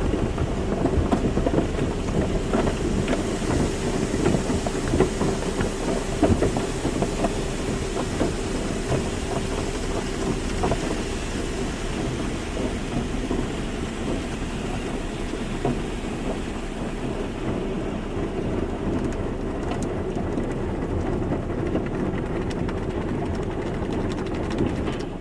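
Car wash running: water spraying and splattering against a car, with a steady machine hum underneath that fades out after the middle.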